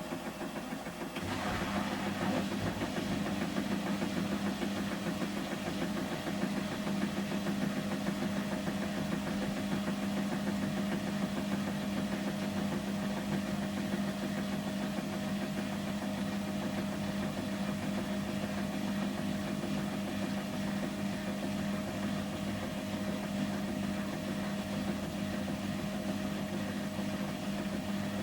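Samsung Series 5+ front-loading washing machine in its final spin at 800 rpm: the drum turns fast with a steady motor hum. The hum steps up slightly about a second in and then holds even.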